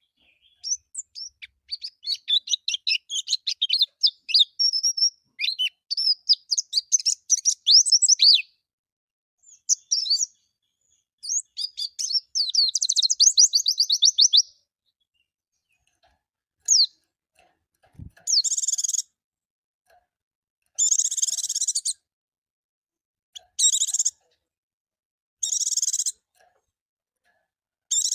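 White-eye (pleci) singing a rapid, high twittering song of quick chirps. After a short pause comes a run of short rasping calls, about one every two to three seconds.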